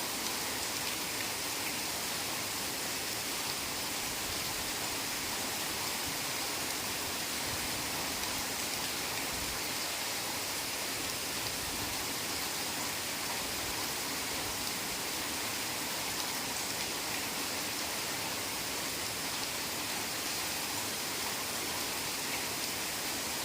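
Steady heavy rain falling on forest foliage: an even hiss with no distinct drops or thunder.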